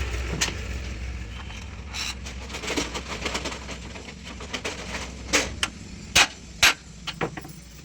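Sharp clicks and knocks of hard parts and tools being handled, loudest in three sharp knocks in the second half. A low rumble fades out in the first second or two.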